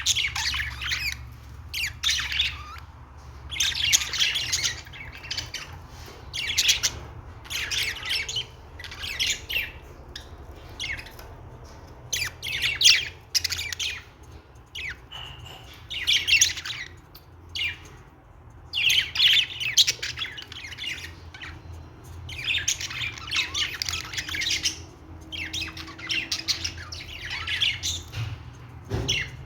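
Budgerigars chattering and warbling in busy bursts every second or two, over a steady low hum.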